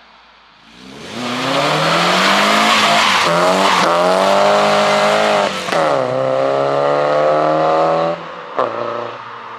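A car accelerating hard away from the exit, its engine revs climbing and dipping briefly at each gear change. The car lifts off near the end, with a sharp crack from the exhaust, and the sound fades.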